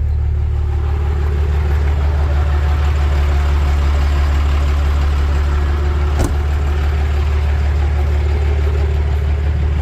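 5.9-litre 12-valve Cummins inline-six diesel idling steadily through a 4-inch straight pipe and stack, with a deep tone at idle. A single sharp click sounds about six seconds in.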